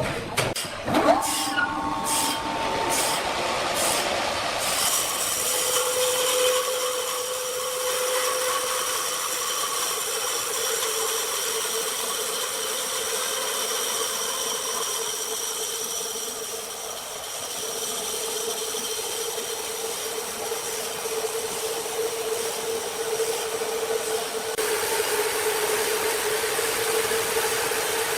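Sawmill machinery: a run of sharp knocks in the first few seconds, then the big saw running with a steady whine.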